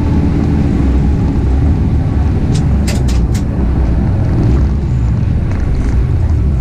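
Mazda RX-8 race car's twin-rotor Wankel engine running steadily under load, with three or four sharp clicks about three seconds in.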